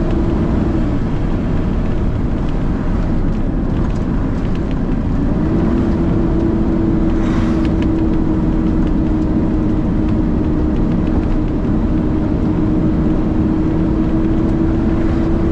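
Peterbilt truck's diesel engine running, heard from inside the cab: a steady drone that drops away about a second in and comes back about five seconds in, with a short hiss about seven seconds in.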